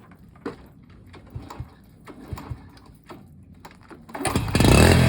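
A few light clicks and knocks, then about four seconds in a Honda Super Cub's single-cylinder four-stroke engine starts up and runs loudly close by.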